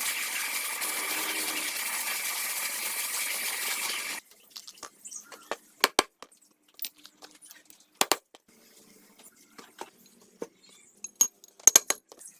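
A steady spraying hiss with a faint high tone for about four seconds, cutting off suddenly, then scattered light metallic clicks and clinks of small parts being handled.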